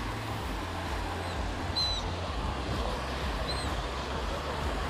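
Outdoor ambience: a steady rushing noise with a low rumble, and short high bird chirps about two seconds and three and a half seconds in.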